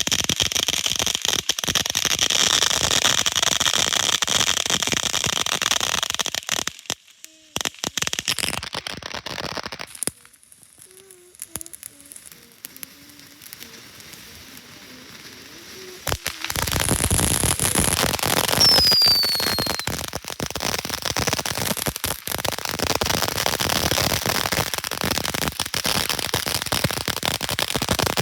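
Firework cakes firing in a continuous barrage of dense crackling and popping. It drops to a lull of several seconds about a quarter of the way in, then starts up again, with a brief falling whistle soon after.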